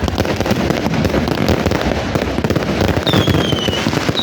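Fireworks crackling densely and rapidly, like a long string of firecrackers going off. About three seconds in, a high whistle starts and falls in pitch.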